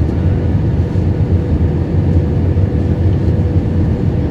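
Steady cabin rumble inside an Airbus A320 in flight: engine and airflow noise from its IAE V2500 engines, with a faint steady hum running through it.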